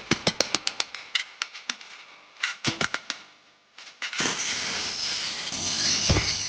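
A quick run of about ten sharp hammer taps on steel, a few more a second later, then from about four seconds in a steady abrasive rasping on the steel blade as it is worked.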